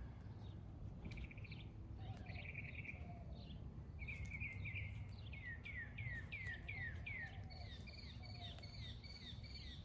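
Birds chirping and trilling in the background, including a run of quick falling notes repeated about twice a second through the middle, over a steady low background rumble.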